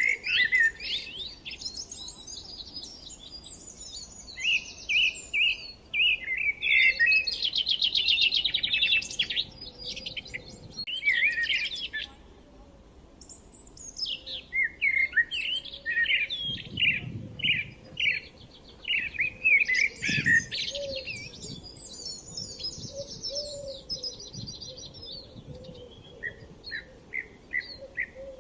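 Several forest songbirds chirping and singing in quick, overlapping phrases and trills, with a brief lull about halfway through before the chorus picks up again.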